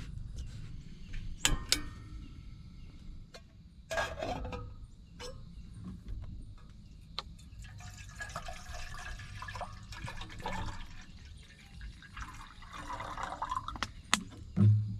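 Liquid splashing or being poured, among scattered clicks and knocks of handling, with a dull thump near the end.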